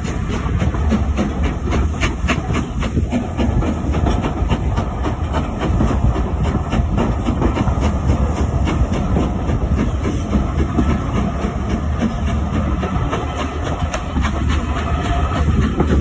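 A steam-hauled heritage train running along the line, heard from an open carriage window: a steady rumble of the wheels on the rails with clicks over the rail joints.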